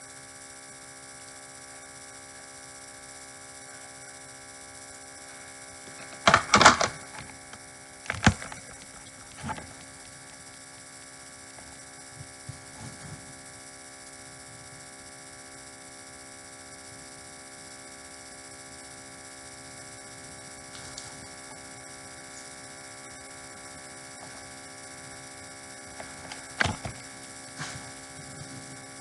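Steady electrical hum made of many fixed tones, broken by a few sharp knocks: a quick cluster about six seconds in, two more over the following few seconds, and one more near the end.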